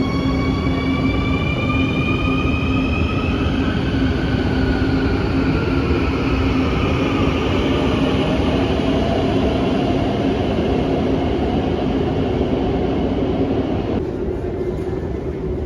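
Electric metro train accelerating: the whine of its traction motors rises in pitch over a steady rumble of wheels on rail. The sound drops abruptly in level near the end.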